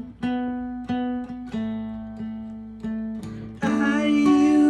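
Acoustic guitar picking notes that ring and die away, as song accompaniment. About three and a half seconds in, a louder held note with a wavering pitch joins in.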